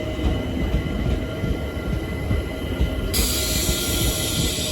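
Class 455 electric multiple unit running through the station, a steady rumble with a faint whine. About three seconds in, a sudden hiss joins in and carries on.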